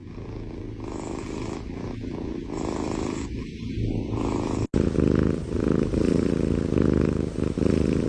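A cat purring steadily, with a short break about halfway through and louder after it.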